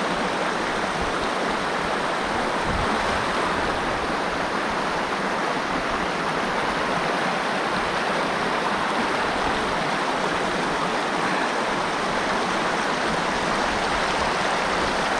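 River current rushing steadily, a continuous even sound of fast-flowing water.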